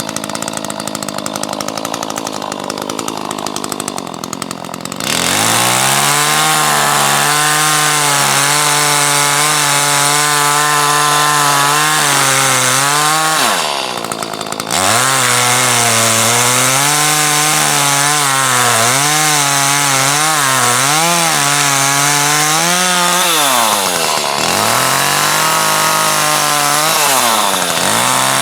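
Chainsaw idling, then revved to full throttle about five seconds in and cutting wood, its pitch sagging and recovering under load. It drops back twice to a lower pitch, about halfway through and again near the end, before revving up again.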